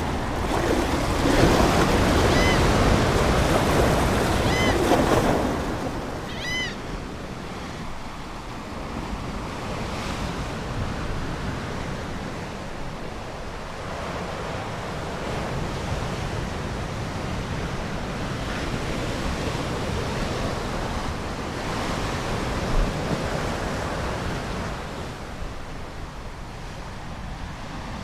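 Ocean waves washing onto a shore: a loud surge in the first five seconds, then a softer, steady wash. A seagull gives three short calls in the first seven seconds.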